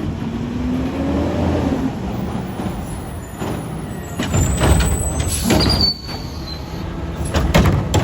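Autocar ACX garbage truck with a McNeilus Meridian front-load body and Curotto-Can arm: its diesel engine runs with a tone that rises in pitch over the first two seconds, then loud clanking and banging starts about four seconds in and returns near the end.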